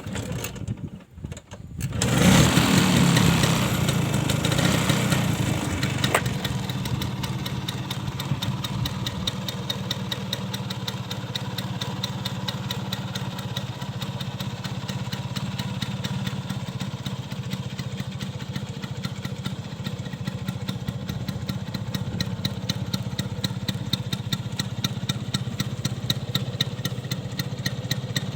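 Vespa PX 150's two-stroke single-cylinder engine firing up about two seconds in after a few clunks. It revs briefly, then settles to a steady idle through a stock muffler with its baffles gutted (bobokan).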